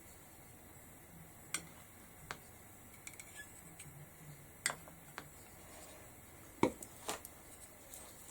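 A handful of light clicks and taps from paint pots and a brush being handled on a palette, the strongest about two-thirds of the way in.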